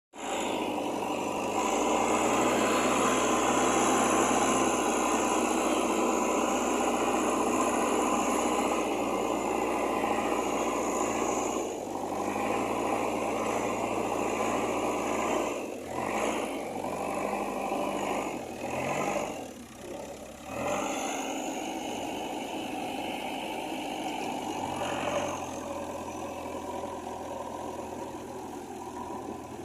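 JCB 3DX backhoe loader's diesel engine running steadily while it works, its sound dipping and recovering several times in the middle stretch.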